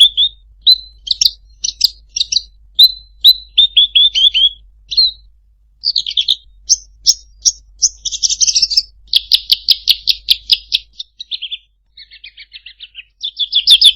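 Songbird singing a fast, varied run of sharp chirps and whistled notes, with a rapid rattling trill about nine seconds in and softer buzzy notes near the end.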